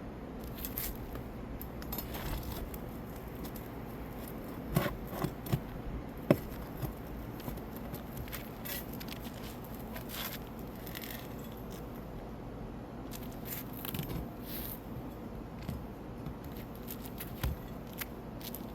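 A metal hand tool scraping and clicking against shingles and roofing nails as rusted nails are pried out, with scattered sharp clicks and one louder knock about six seconds in.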